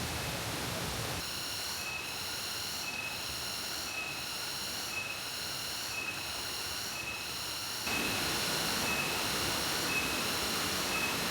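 Steady rush of a waterfall, growing louder about eight seconds in, with an insect's high, rhythmic pulsing call repeating a little faster than once a second.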